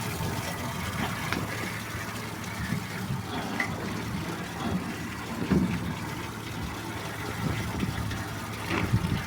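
Water running steadily, as if filling a drinking trough, over a low steady hum.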